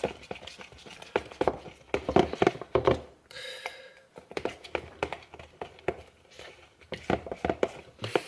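Rapid taps, knocks and clatter of kitchen things being handled, with a brief high tone about three and a half seconds in.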